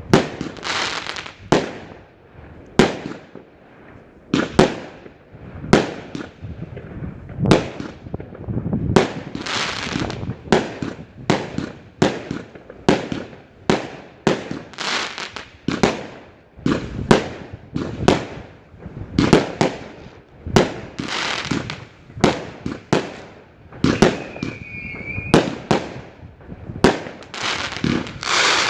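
A fireworks display: a steady series of sharp aerial shell bursts at irregular intervals, about one a second, each ringing out into crackle and echo. A short whistle sounds about three-quarters of the way through.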